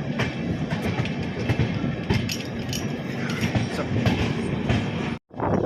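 Passenger train running on the rails: a steady rumble with frequent clicks of the wheels over the track. It cuts off abruptly about five seconds in, and a brighter rushing noise follows.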